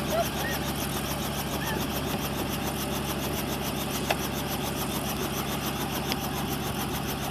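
Helicopter's engine and rotor running steadily, with a fast even beat in the high hiss and a faint click about four seconds in.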